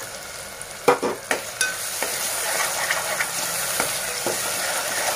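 Chopped onion and tomato frying in oil in a pressure cooker, sizzling while a metal spoon stirs them. The spoon knocks and scrapes against the pan several times, and the sizzle grows louder after about a second and a half.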